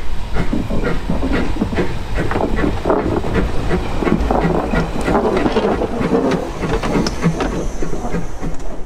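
Narrow-gauge steam train running, its wheels clattering over the rail joints with a steady low rumble and a stream of clicks and knocks.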